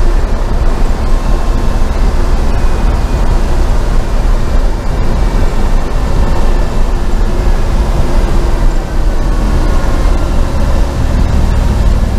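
LS-swapped Chevy C10 pickup driving, its V8 engine running with road noise, heard from inside the cab as a loud, steady drone.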